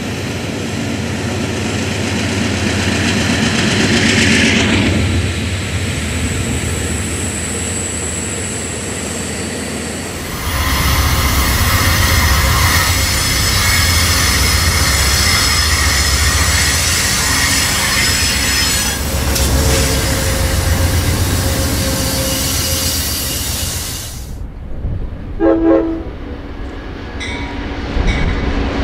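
Amtrak passenger trains rolling past in three successive shots: GE Genesis diesel locomotives running over wheel-on-rail rumble and clatter, with high-pitched wheel squeal. The sound changes abruptly about 10 seconds in and again about 24 seconds in, and a short train horn blast sounds near the end.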